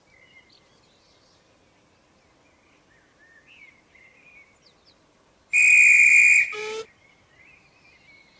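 A short, loud, high-pitched whistle blown for about a second more than halfway through, then sagging quickly down in pitch as it dies away. Faint bird chirps sound around it.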